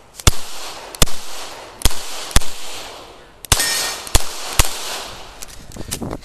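9mm CZ Shadow 2 pistol firing a rapid string of about seven shots, in quick pairs and singles, each a sharp crack with a short echo. Fainter cracks and pops follow near the end.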